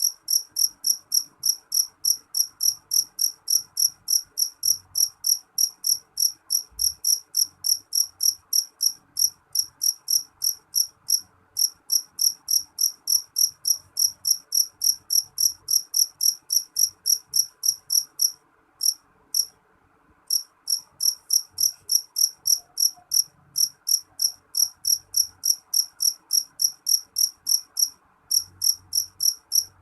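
A cricket chirping in a steady, even rhythm of about three high chirps a second. It stops for about two seconds about two-thirds of the way through, and briefly again near the end.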